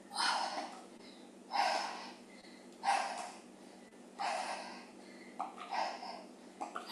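A woman breathing hard from exertion, with about five forceful breaths spaced roughly a second and a quarter apart.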